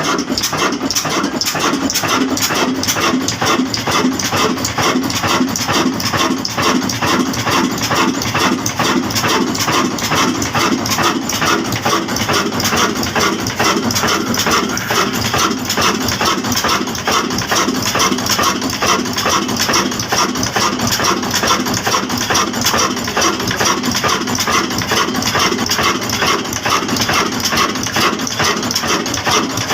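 Old black diesel engine running steadily, with a fast, even beat.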